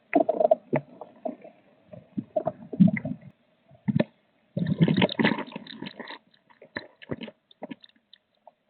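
Rustling, scratching and light knocking inside a blue tit nest box: a bird shifting about in the nest material and scraping against the wooden walls. The sounds come in irregular bursts, busiest about halfway through.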